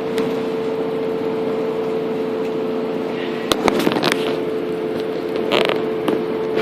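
Inside a bus cabin: the bus's engine and drivetrain running with a steady droning hum under road noise, broken by a quick cluster of rattles and knocks about three and a half seconds in and a shorter rattle a couple of seconds later.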